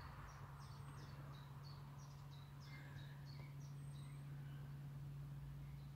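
A small bird calling over and over in short, high chirps, about three a second, faint, over a steady low hum.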